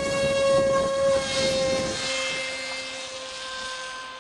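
Multiplex TwinJet RC model's homemade brushless outrunner motor and propeller running at high throttle: a steady high-pitched whine that fades and dips a little in pitch over the last two seconds.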